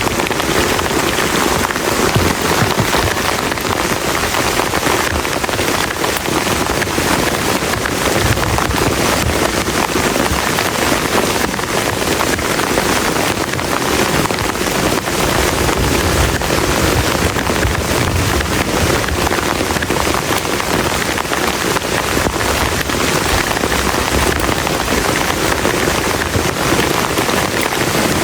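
Heavy rain pouring steadily onto a plastic tarp shelter, a dense, even patter without a break.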